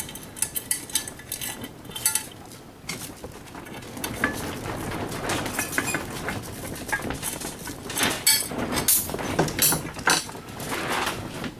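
Metal parts and hand tools clinking and knocking as a coffee grinder is dismantled for scrap: a string of irregular small clinks and taps.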